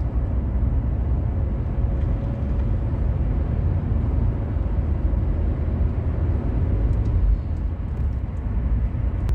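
A 2015 Buick Encore being driven, heard from inside the cabin: a steady low rumble of engine and road noise.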